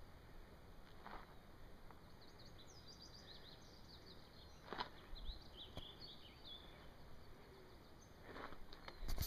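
Faint bird song: a run of quick, high chirps and twitters for a few seconds in the middle, over a quiet outdoor background. A few soft knocks, with louder ones near the end.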